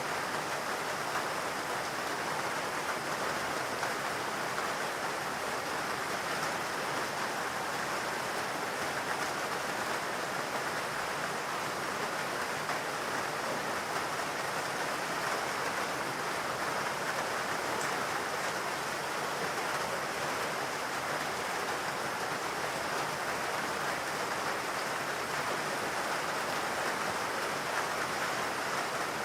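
Steady rain falling in a forest: an even, unbroken hiss of rainfall with no single drops or other sounds standing out.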